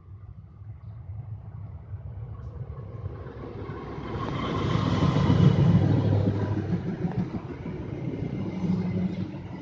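KAI CC206 diesel-electric locomotive hauling a passenger train: its engine rumble and the train's running noise build steadily, are loudest about halfway through, then ease off.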